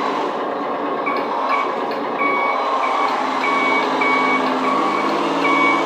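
Electronic sound module of a 1/10-scale RC 6x6 pickup crawler playing a simulated truck engine with reversing beeps, about two beeps a second, which it plays when the truck backs up. The engine sound rises in pitch about halfway through.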